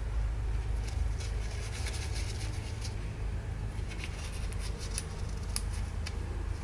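Scattered light clicks and scrapes of small parts being handled, over a steady low hum.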